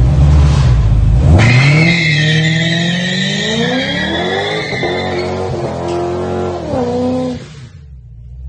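A V8 car engine rumbling, then revving up hard with its pitch climbing for a few seconds under a high tyre squeal, shifting in steps and dying down near the end.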